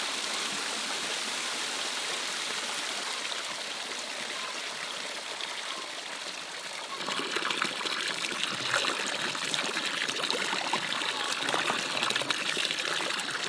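Water running and trickling, turning louder and more uneven, with many small clicks, about halfway through.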